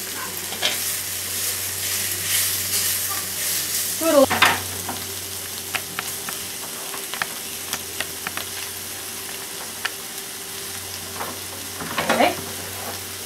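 Beef cubes and vegetables sizzling in a cast-iron Dutch oven as the meat is put in and stirred with a metal spoon, a steady frying hiss with scattered clicks and a couple of louder scrapes against the pot, about four seconds in and near the end.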